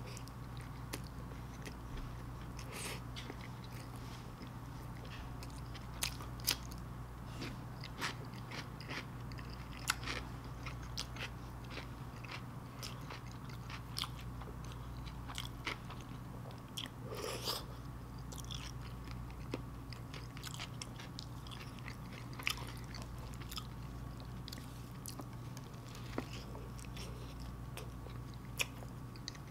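Close-miked biting and chewing of a sloppy joe sandwich, a soft bun with saucy ground beef: short, scattered mouth clicks over a faint steady hum.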